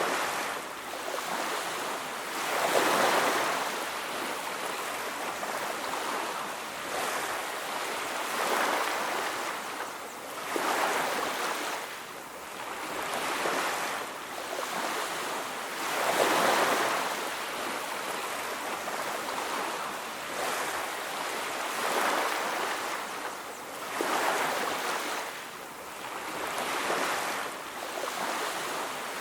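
Sea surf on a beach: waves breaking and washing in, each swell rising and falling away every few seconds.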